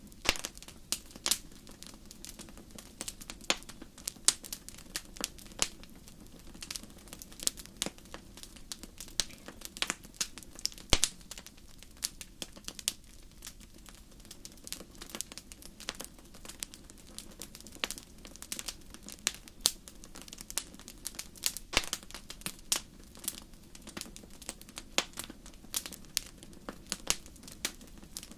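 Wood fire in a fireplace crackling, with sharp irregular pops and snaps over a faint steady low hiss.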